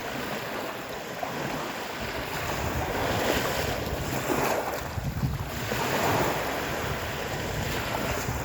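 Waves of a stormy sea surging and breaking in repeated swells, with wind rumbling on the microphone.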